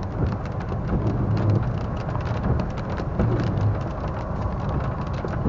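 Rain hitting a car while it drives: many separate drop clicks over the steady low rumble of the car on the road, heard from inside the cabin.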